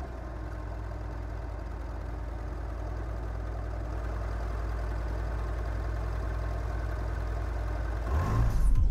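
Car engine idling steadily, a low even rumble that grows a little louder and stops about eight seconds in.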